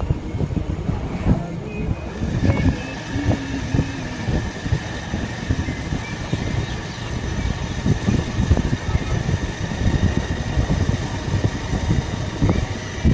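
Motorcycle on the move, its engine running under heavy wind buffeting on the microphone. A thin, steady high whine sits over the rumble from about two seconds in.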